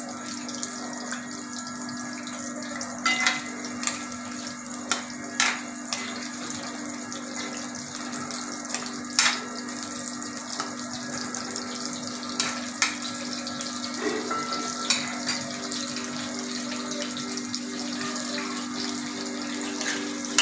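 Whole baby potatoes and small onions sizzling steadily as they fry in hot oil in a wok, with a handful of sharp clicks from a steel spoon stirring against the pan. A steady low hum runs underneath.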